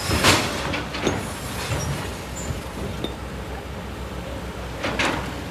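Kobelco SK200 excavator's diesel engine running steadily while working in sand and stone, with stones clinking and scraping; a louder rush of scraping stone comes just after the start and again near the end.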